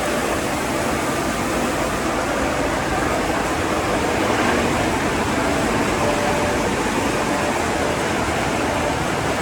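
Automatic car wash tunnel equipment running, a loud steady rushing noise with no breaks.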